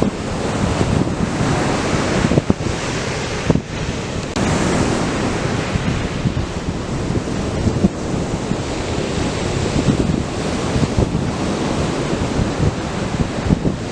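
Atlantic surf breaking and washing up a sand beach in a steady rush, with wind buffeting the microphone in irregular low gusts.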